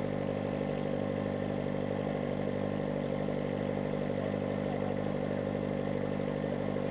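Kawasaki ZX-4RR's 399 cc inline-four engine running at a steady, unchanging engine speed.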